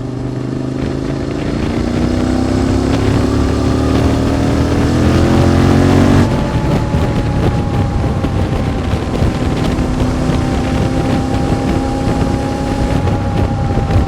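QJ Motor SVT650X with an Arrow Race-Tech exhaust accelerating, the engine note rising for about six seconds. It then drops suddenly at an upshift and holds a steady note at cruise, with wind rushing over the microphone.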